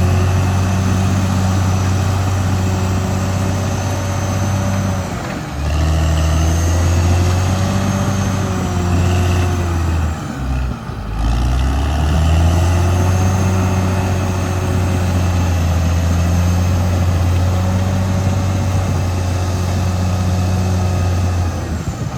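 Caterpillar D6R XL bulldozer's diesel engine running steadily under load, with a higher whine that follows its pitch. The engine note sags briefly twice, about five and a half seconds in and again around eleven seconds, then picks back up.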